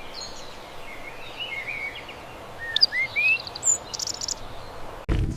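A songbird singing: scattered short chirps and slurred rising whistles over a steady outdoor hiss, with a few very high notes in the middle. Right at the end a loud, low sound starts suddenly.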